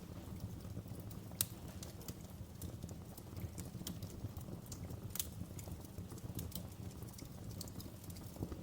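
Wood fire burning in a fireplace, a steady low rumble with irregular sharp crackles and pops, the loudest about a second and a half in and again about five seconds in.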